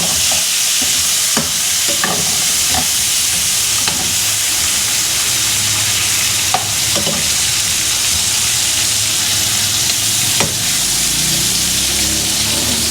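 Browned chicken pieces sizzling in a pan with butter, onions and garlic. A steady frying hiss runs throughout, with a few scattered clicks and scrapes as the food is stirred in the pan.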